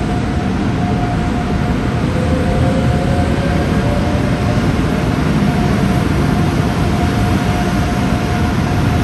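Trains at a station platform: an NS passenger train pulling out and a DB class 189 electric locomotive running in. The sound is a steady rumble of wheels and running gear that slowly grows louder, with a steady high whine over it and a motor tone rising in pitch for a couple of seconds near the start.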